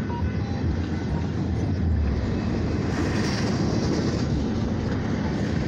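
Military freight train rolling past, a steady rumble of railcars on the rails.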